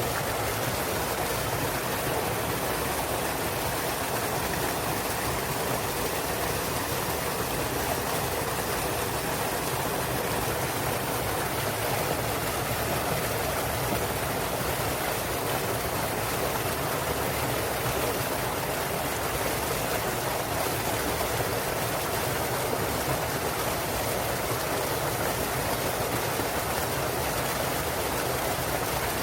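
Small waterfall splashing into a mountain stream, its clear water rushing and babbling steadily without a break.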